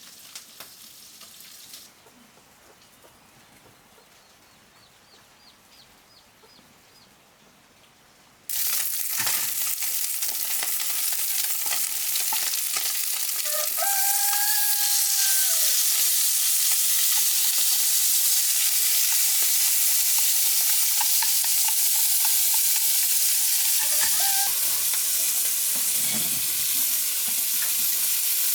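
Food dropped into a pan of hot oil: after a quiet start, a loud frying sizzle begins suddenly about a third of the way in and keeps going steadily. A rooster crows once in the middle.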